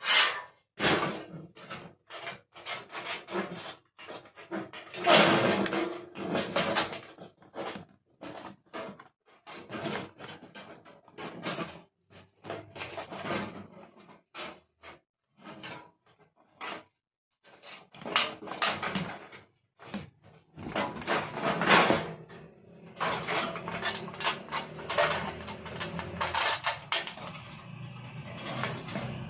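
Irregular clicks, knocks and scrapes of a plastic room heater being handled as its glass heating rods are pushed into their holders.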